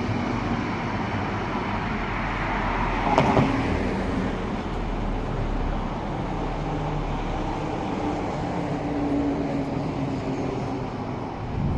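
A light rail tram passing with a steady rumble and faint motor hum, over road traffic, with a single sharp clunk about three seconds in.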